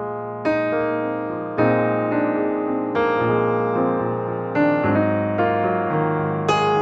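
Background piano music: slow, gentle chords struck about once a second, each ringing and fading.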